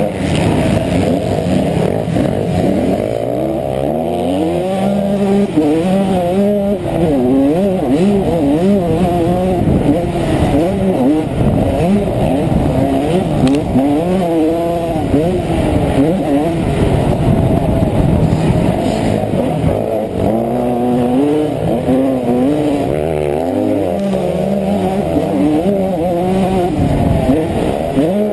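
Honda CR125 two-stroke single-cylinder engine revving up and down over and over as the bike is ridden hard around a motocross track, its pitch climbing and dropping with throttle and gear changes. The sound is muffled, as if heard through a camera housing.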